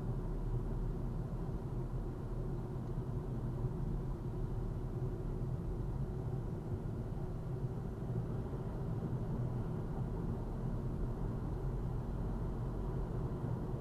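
Steady low rumble of a car on the move, heard from inside the cabin: engine and road noise, with no sudden sounds.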